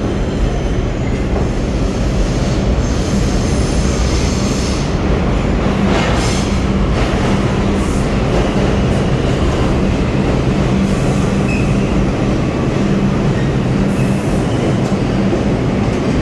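R142 subway train running through the station with a steady, loud rumble. A low hum comes and goes, and faint wheel squeal rises above it at times.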